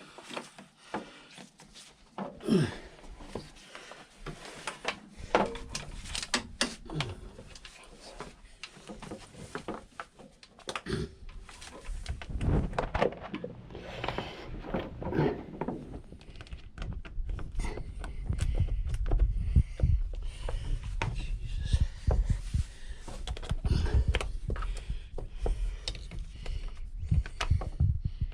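Hands and hand tools working on scooter parts: scattered clicks, taps and knocks. In the second half these give way to heavier, uneven low thuds and rumbling.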